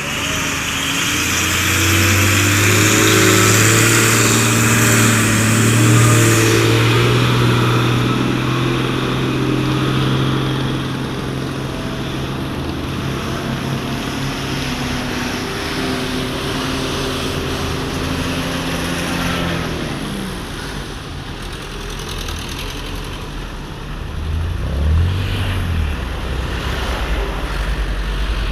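A heavy truck's diesel engine labouring up a hill, sounding worn and rattly. It holds a steady note and is loudest over the first several seconds, drops in pitch about two-thirds of the way in, then settles into a lower, quieter rumble.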